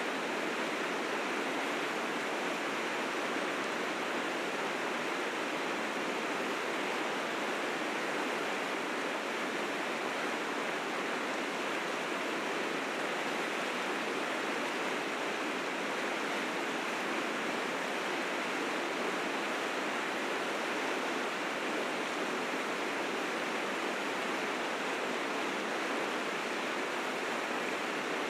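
River rapids rushing steadily, fast spring meltwater pouring over the rapids without letting up.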